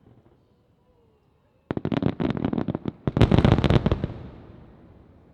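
Aerial fireworks shells bursting in a rapid string of sharp reports, starting about a second and a half in, with a second, louder cluster about three seconds in, then the rumble dies away.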